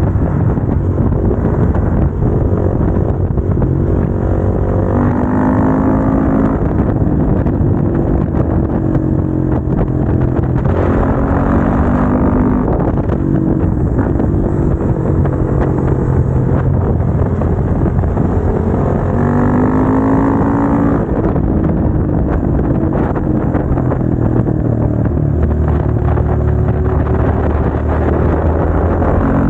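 Motorcycle engine running under load while riding, climbing in pitch under acceleration three times and dropping back between.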